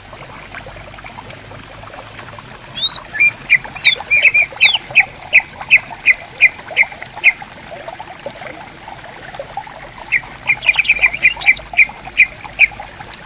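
Greater green leafbird (cucak ijo) calling in rapid runs of short sharp notes, about three a second, with a few rising whistles mixed into the first run. There are two runs, with a pause of a couple of seconds between them, over the steady trickle of a stream.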